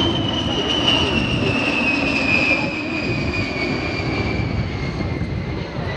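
A-10 Thunderbolt II jet flying past, its two TF34 turbofan engines giving a loud rumble and a high whine that falls steadily in pitch as it goes by, easing off a little toward the end.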